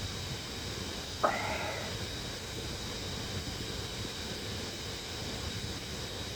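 Steady fan noise with a faint high whine. About a second in, a short sharp sound lasts about half a second.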